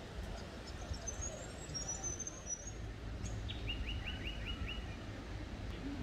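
Small birds singing: thin, high whistled notes, then a quick run of about six repeated short notes a little past halfway.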